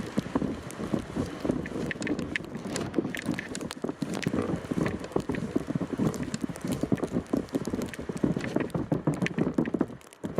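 Footsteps in snow, one after another in a walking rhythm.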